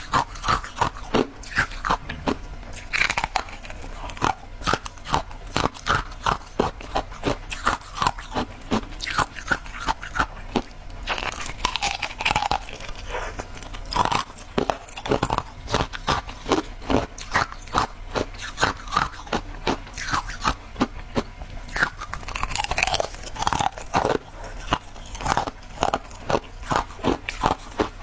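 Shaved ice being chewed close to the microphone: a steady run of crisp crunches, about two a second.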